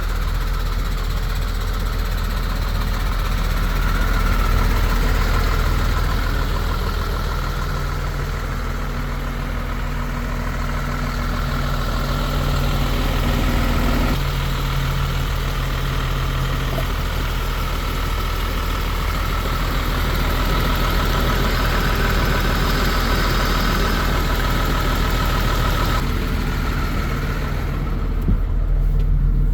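MAN TGM 18.250 truck's six-cylinder diesel engine running steadily at idle. The tone shifts abruptly twice, about 14 and 26 seconds in.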